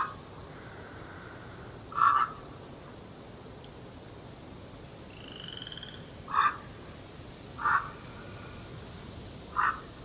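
A bird calling with short single calls, five of them one to four seconds apart, over a steady forest background hiss. A fainter high trill from another bird comes about halfway through.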